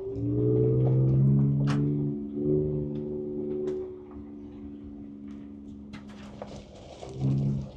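2024 Ford Ranger Raptor's twin-turbo V6 heard from inside the cab, pulling under throttle for a few seconds, easing back, then another short burst of throttle near the end. Scattered knocks and rattles from the truck working over rough trail run throughout.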